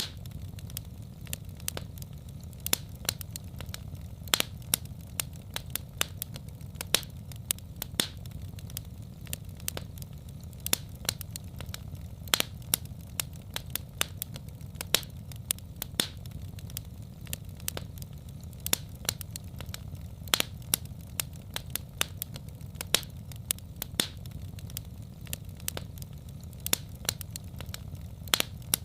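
Wood fire crackling and popping: frequent irregular sharp pops over a steady low rumble of flames.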